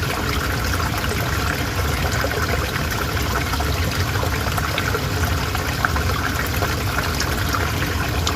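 Calm river water flowing steadily: an even rush dotted with many small splashes and gurgles.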